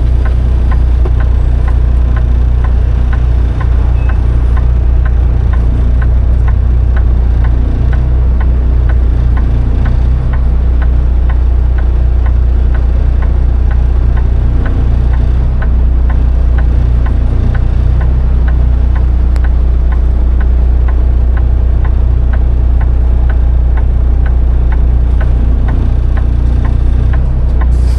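A Kenworth semi truck's diesel engine heard from inside the cab, a steady low drone, with a regular light ticking about twice a second.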